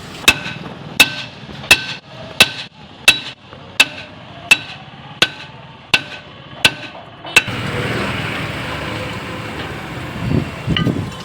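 Hammer blows on a Maruti Omni's rear brake drum to knock it off, eleven ringing metal strikes about one every 0.7 seconds, then a steady hiss for the last few seconds.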